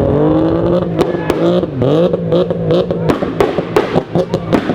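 A car engine revving hard, its pitch dropping and climbing again before two seconds in, then a rapid irregular string of loud exhaust pops and bangs from about three seconds in as the revs fall.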